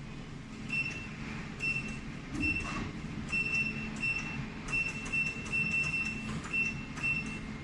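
Jewelry laser welding machine firing a rapid series of pulses, about two a second, each a sharp click with a brief high-pitched tone. A steady low hum from the machine runs underneath.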